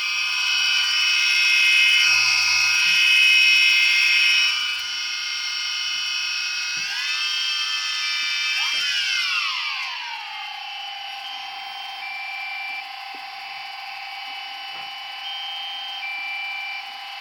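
Multirotor drone's motors and propellers whining, the pitch sweeping up and down as it manoeuvres, then holding steady from about ten seconds in as it hovers.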